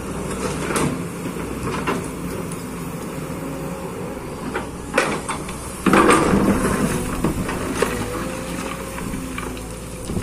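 Kobelco hydraulic excavator's diesel engine running steadily, with scattered metallic knocks and clanks from the working machine, the loudest about six seconds in.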